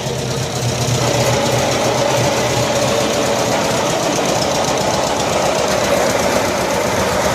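1974 Cushman Truckster's small engine running at low speed, a steady rapid chugging, while the utility vehicle is turned and edged along.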